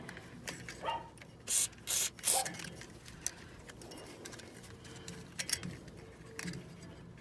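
Handling noises from work on a swamp cooler's blower bearings: scattered small clicks and short scrapes, with a cluster of louder brief noises about one and a half to two and a half seconds in.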